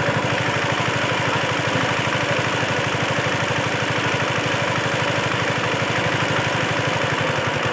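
Two-wheel hand tractor (kuliglig) engine running steadily with a fast, even chugging beat.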